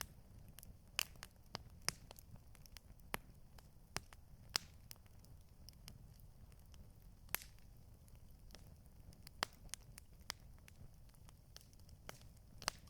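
Campfire crackling: irregular sharp pops and snaps from burning wood over a low, steady rumble.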